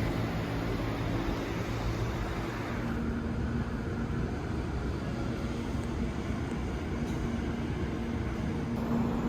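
Steady running noise of a train: a continuous rumble with a low, even hum.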